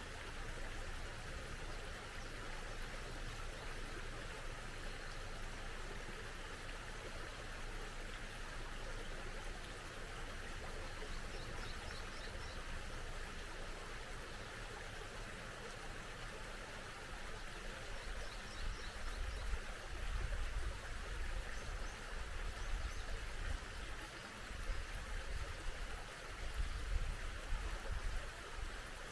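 Small stream flowing steadily, with faint high bird chirps a few times and a low rumble swelling in the second half.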